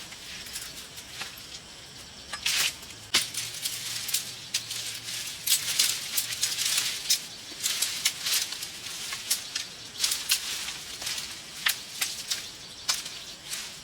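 Irregular rustling and sharp clicks, several a second at times, with no steady rhythm.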